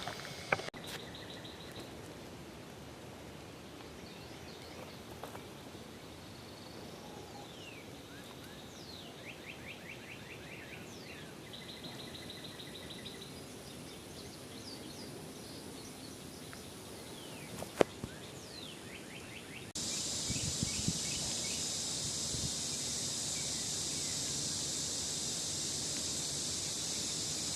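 Wild birds singing in the open: short fast trills and quick falling chirps, repeated at intervals, over faint outdoor background. About twenty seconds in, the sound changes abruptly to a louder, steady high-pitched hiss.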